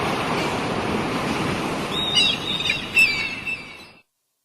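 Steady wash of sea waves and wind, with small birds chirping in short calls from about two seconds in. It all cuts off abruptly near the end.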